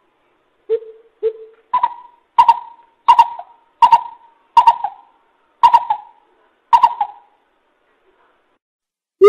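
Greater coucal calling: two low hoots, then a series of seven louder, higher hooting notes that slow toward the end. This is the lure call that trappers play to draw coucals in.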